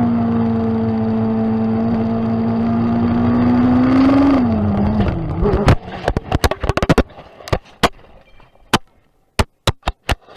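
Motorcycle engine running at a steady pitch, rising briefly and then dropping off about four and a half seconds in. A rapid run of sharp knocks and clicks follows, thinning out to a few isolated clicks with near silence between them.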